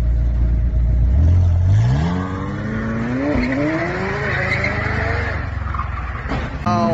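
Car engine accelerating hard: after a steady low drone, its pitch climbs from about two seconds in, dips briefly once, and climbs again, with a rushing noise building as the car speeds up.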